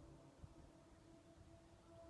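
Near silence with a faint, steady hum of two held tones: the strange noise that seems to come from the sky.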